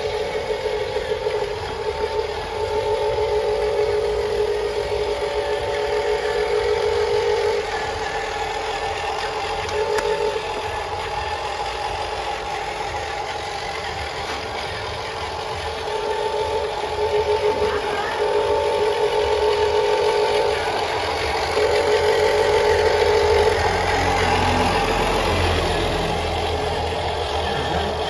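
Radio-controlled Huina 1573 dump truck's electric motors whining in runs of a few seconds that start and stop repeatedly, over a steady low hum.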